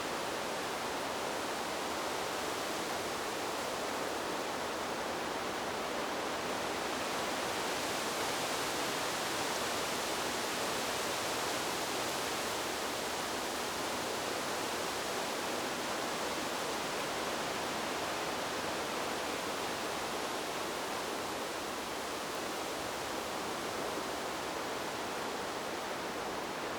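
Wind blowing through trees: a steady rushing hiss that swells a little about a third of the way in, then eases back.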